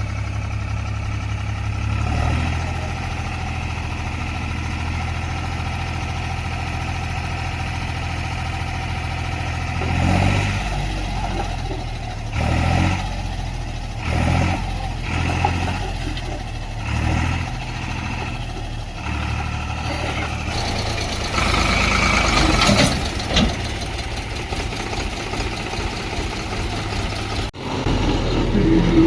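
Diesel engines of a backhoe loader and tractors running steadily, with the engine note surging up and down several times under load in the middle part and a louder stretch a little past twenty seconds in.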